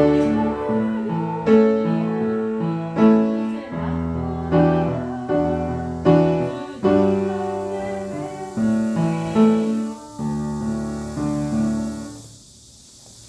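Piano playing a slow hymn in held chords, a new chord struck about every second and a half, the last chord dying away about twelve seconds in.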